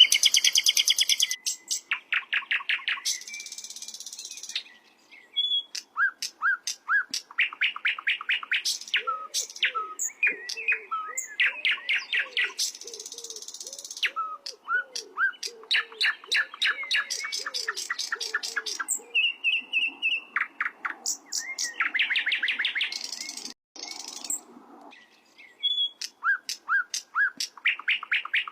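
Sikatan londo singing: loud, rapid trills and phrases of sharp, high chirping notes, one burst after another with brief pauses between them.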